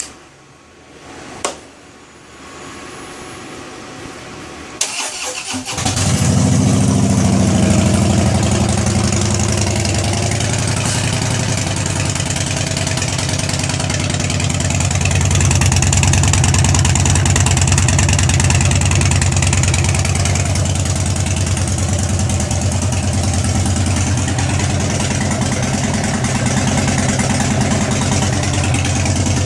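A Harley-Davidson Dyna Switchback's V-twin, fitted with Samson Legend Street Sweeper exhaust pipes, starting after a few clicks about five seconds in, then idling steadily.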